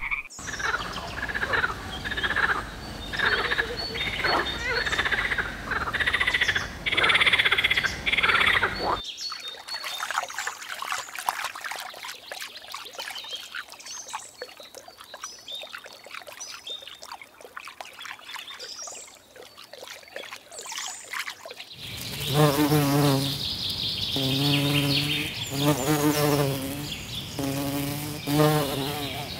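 Three animal sounds in turn. First, frog calls repeating in short pulses for about nine seconds. Then a dense run of fine clicking and crackling. Finally, from about three-quarters of the way in, a bumblebee buzzing in several short bouts with a low, wavering pitch.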